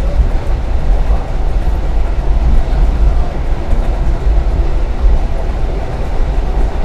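Passenger train running along the track, a steady loud low rumble.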